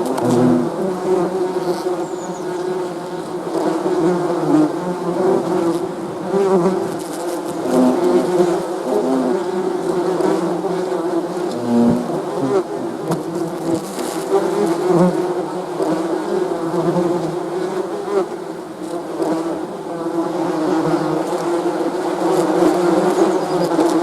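Many bees buzzing together, a steady dense hum whose pitch and loudness waver as individual bees come and go.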